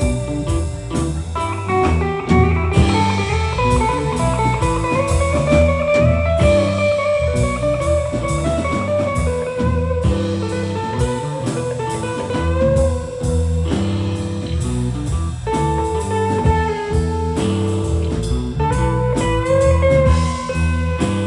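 Live blues band playing an instrumental passage: a lead guitar line with long held and bent notes over bass and drums.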